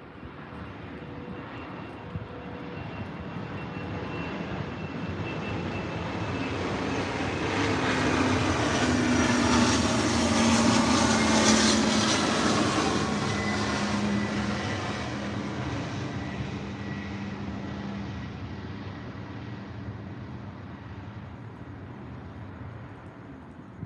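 An aircraft passing overhead: its engine drone swells over about ten seconds, peaks near the middle and fades away, the hum dropping slightly in pitch as it goes by.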